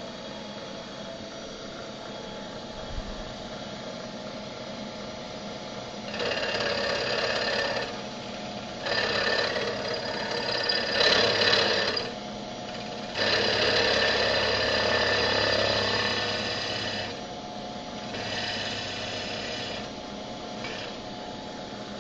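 Comet 3KVHD milling machine running with a steady hum. Four times it rises for a few seconds into a louder whir with a mix of steady tones, as the machine works the wheel.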